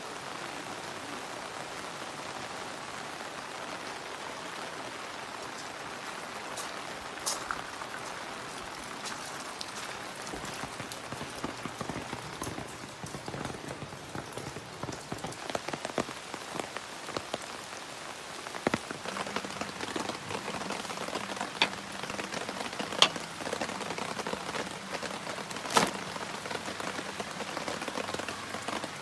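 Steady rain falling, with individual heavier drops striking sharply here and there, more often and louder in the second half.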